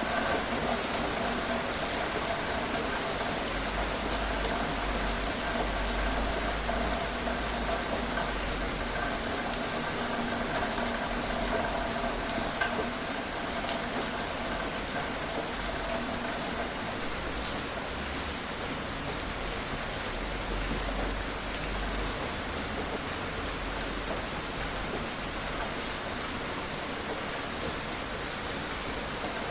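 Steady gentle rain falling, an even hiss of rainfall with individual drops ticking through it.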